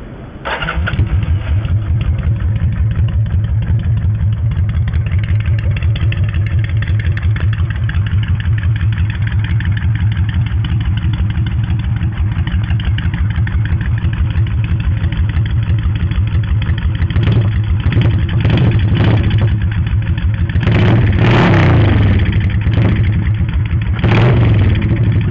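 Kawasaki Vulcan VN800 V-twin with a custom exhaust, starting about half a second in and settling into a steady idle. Several short throttle blips come near the two-thirds mark, then louder, longer revs near the end.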